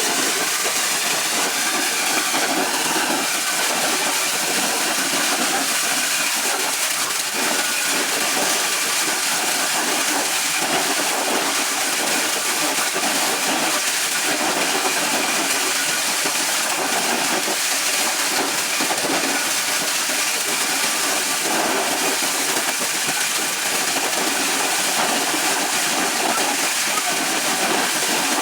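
Corn shelling machine running steadily, a loud, even hissing rush of machinery with no breaks or changes.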